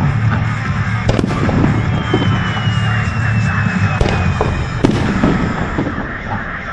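Aerial fireworks shells bursting in sharp bangs, about a second in, at four seconds and again just before five seconds. A thin whistle glides slightly downward in between, over music playing underneath.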